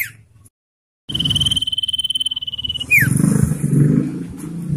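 Common iora giving its long drawn-out whistle: one steady high note held for nearly two seconds, ending in a quick downward slur. The sound cuts out for about half a second before the call, and a low rumbling noise runs underneath after it.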